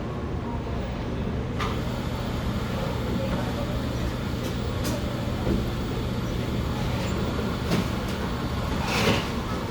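Café background noise: a steady low hum and even hiss, with a few brief clinks and knocks scattered through, the loudest near the end.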